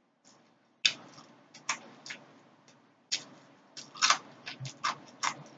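Close-miked eating sounds: irregular crisp clicks and smacks of lips and chewing on fried tilapia, loudest about four seconds in.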